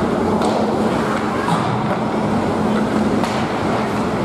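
Ice hockey arena ambience during play: a steady rumble with a low hum, and a few faint sharp scrapes or clicks from the ice.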